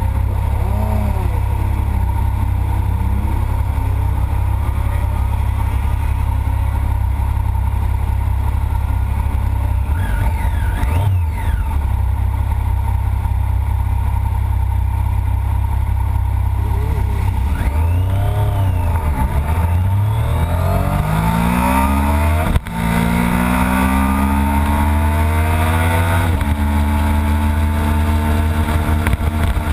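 Triumph Daytona 675 three-cylinder sport-bike engine idling steadily, then pulling away and accelerating through the gears, its pitch rising in sweeps with two quick upshifts in the last third.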